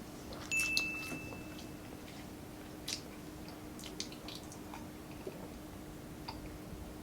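Quiet eating sounds: scattered small clicks and smacks of chewing, over a steady low hum. About half a second in, a brief high-pitched tone sounds for about a second.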